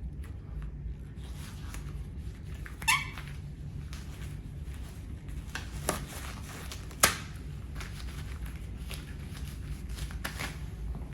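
A toy fire truck being crushed under a riding boot: crackling and creaking with three sharp snaps, at about three, six and seven seconds in, the last the loudest and the first with a short squeak. A steady low hum runs beneath.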